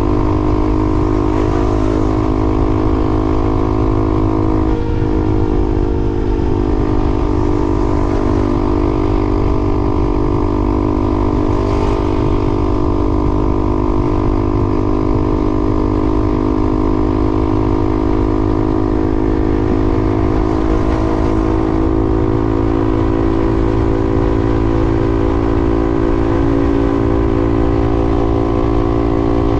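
A vehicle's engine running at a steady speed, with a dense low rumble underneath.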